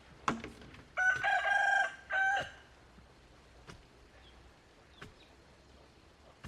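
A rooster crowing once, about a second and a half long, with a short break before its final note. A sharp click comes just before it.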